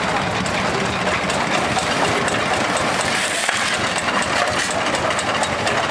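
Old excavator's engine running steadily, with a dense clatter of rapid mechanical knocks.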